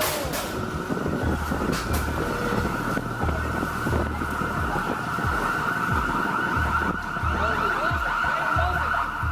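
A steady siren tone held at one pitch, over repeated low rumbling.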